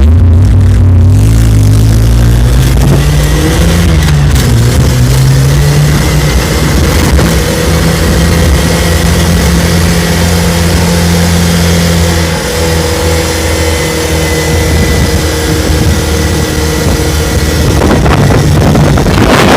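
A vehicle engine accelerating, its pitch climbing over the first few seconds and wavering, then holding steady, with a brief drop in revs about two-thirds through. It is heard loud, with heavy rumble.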